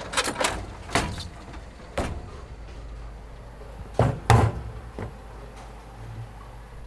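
A series of sharp knocks or clatters, a loud pair about four seconds in, over a steady low hum.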